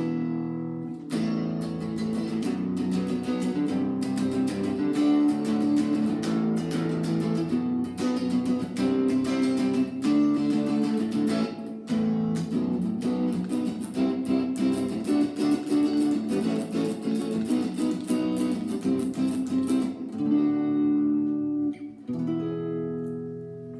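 Guitar strumming chords in a steady rhythm, an instrumental break with no singing. Near the end the strumming stops and a last chord rings out and fades.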